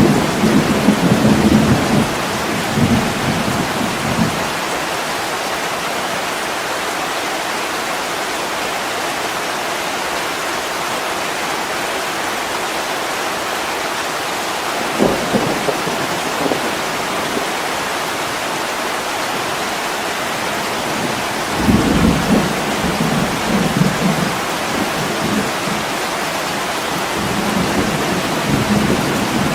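Heavy rain falling steadily on window glass, with low rolls of thunder in the first few seconds, a short sharp crack about halfway through, and longer rumbling in the last third.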